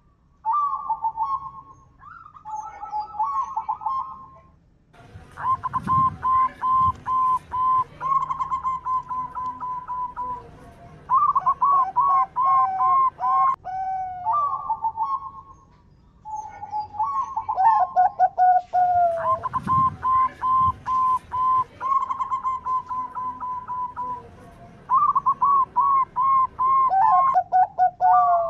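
Local zebra dove (perkutut) cooing: phrases of quick, stuttering coo notes around one pitch, each a few seconds long with short pauses between them.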